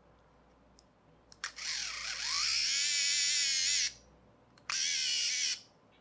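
A small toy electric motor driving its plastic gear train, whirring in two short runs. The first run dips and then climbs in pitch as it spins up, then holds steady. The second is shorter, and each cuts off suddenly.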